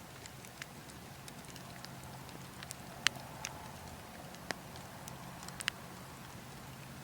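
Burning logs crackling, with scattered sharp pops, the sharpest about three seconds in, over a steady low rush of wind.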